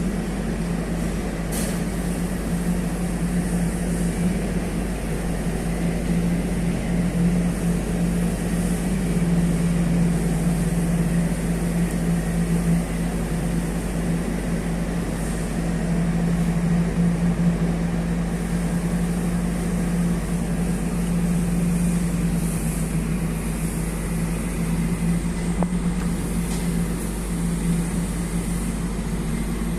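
Heavy diesel engine running steadily with a constant low hum and no revving, under a steady rumble of noise.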